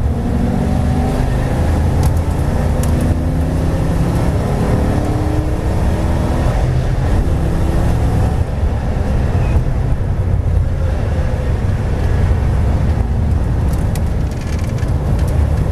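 V8 race car engine at full throttle, heard inside the cabin, its pitch climbing repeatedly in the first half as the car accelerates, then holding high before easing off near the end.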